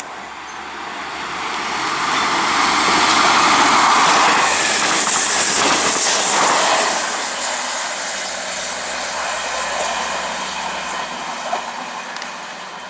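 South Western Railway Class 159 diesel multiple unit passing through the station: engine and wheel-on-rail noise builds to a loud peak about halfway through, then fades as the train runs away. There is a single sharp click near the end.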